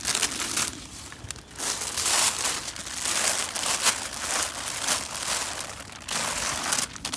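Plastic litter and wrappers crinkling and rustling in repeated bursts as they are handled.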